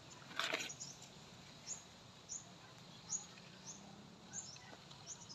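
Faint bird chirping: short, high, downward chirps repeating about every two-thirds of a second. A brief rustle sounds about half a second in.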